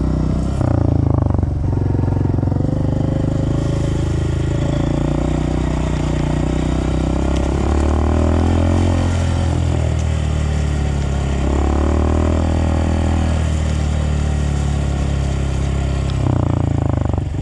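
Dirt bike engine running while being ridden, its pitch rising and falling with the throttle several times.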